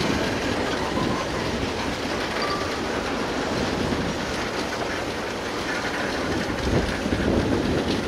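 Freight train of hopper cars rolling along the track, a steady rail rumble with wind on the microphone.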